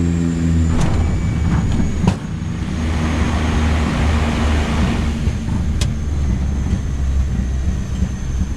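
Steady low engine drone, with a rush of noise swelling in the middle and a few sharp clicks.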